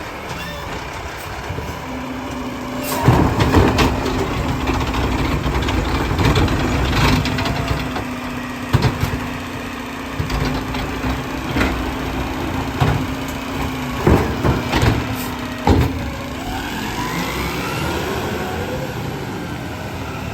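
Garbage truck running its rear packer: the engine holds a steady raised hum for about fourteen seconds while sharp knocks and clanks of the compactor and trash sound irregularly, then the hum drops away near the end.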